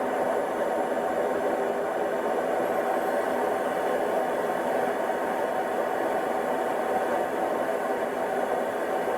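Dyson DC62 cordless vacuum running with its floor head on, a steady whir with a faint high motor whine above it.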